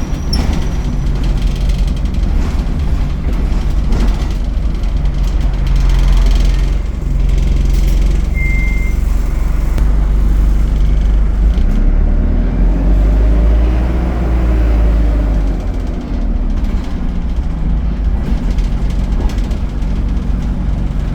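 ADL Enviro 200 bus engine and Allison automatic drivetrain running, heard on board as a steady low drone. Past the middle, a whine rises and then falls over a few seconds as the bus accelerates and eases off. A brief high beep sounds a little before the middle.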